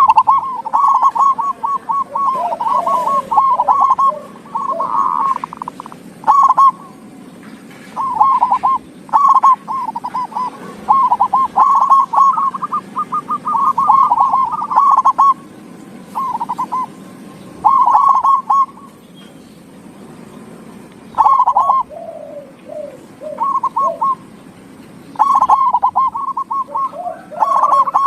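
Zebra dove (perkutut) cooing over and over. Each song phrase is a quick run of ringing, stuttered notes lasting about a second, with short pauses between phrases.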